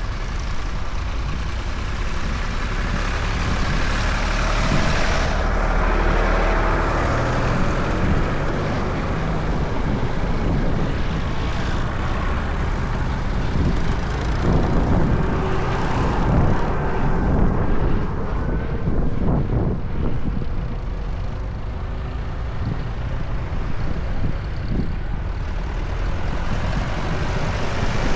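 Tractor engines running as tractors drive along a road, a steady, continuous engine and road noise that swells and eases a little through the stretch.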